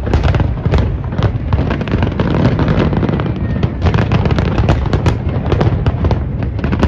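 Fireworks going off in a dense, continuous barrage: many sharp bangs and crackles in quick succession over a steady low rumble of booms.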